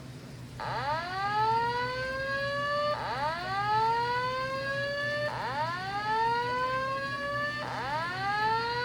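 Fire alarm speaker strobes sounding the slow whoop evacuation tone: four rising whoops, each a little over two seconds long, the first starting about half a second in. The tone fills the gap between repeats of the recorded voice evacuation message.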